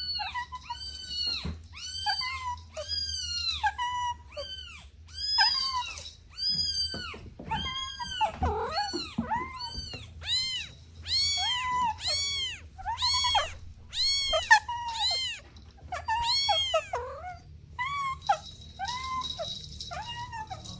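Several kittens meowing over and over in short, high-pitched, arching mews, about two a second, their calls overlapping at different pitches.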